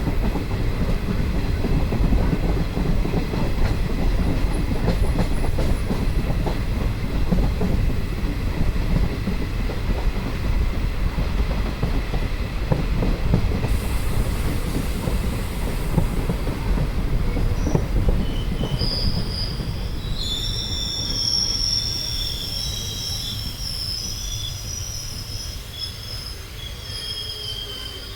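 Train rolling along the track, a heavy low rumble with a constant clatter of wheels over the rails. From about two-thirds of the way in, high wheel squeal comes in while the rumble gradually dies away.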